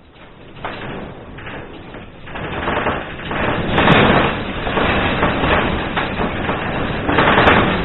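Earthquake shaking a building: a dense rumbling with rattling and knocking that builds over the first few seconds, is loudest about four seconds in, and stays loud.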